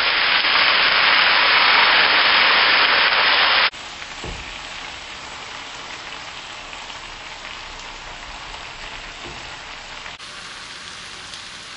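Food frying in oil in a pan, a steady sizzle, louder for the first few seconds and quieter after that.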